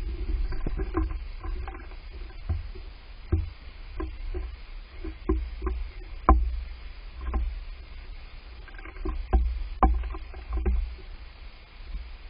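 Wind buffeting the microphone: a steady low rumble with irregular thumps and knocks scattered through it.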